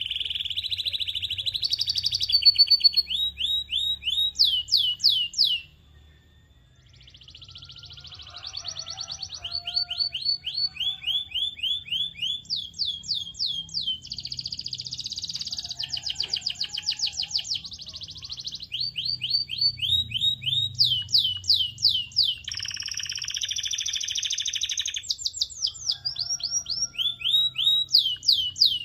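Canary singing: fast trills of repeated down-sweeping whistled notes alternating with buzzy rolls, breaking off briefly about six seconds in.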